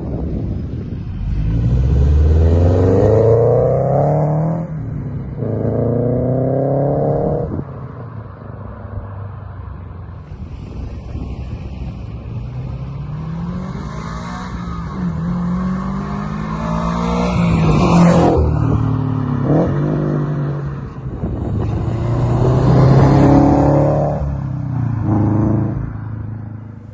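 Subaru BRZ's flat-four engine breathing through a JDL unequal-length header, pulling hard through several accelerations. Each one climbs in pitch and breaks off at a gear change before the next.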